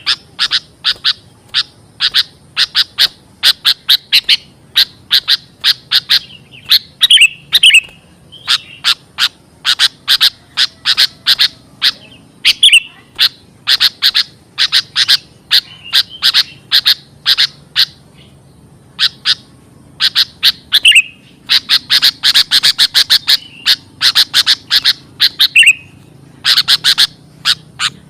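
Sooty-headed bulbul (kutilang) calls played as a lure: rapid runs of short, sharp chattering notes, several a second, broken by brief pauses and a few slurred downward notes.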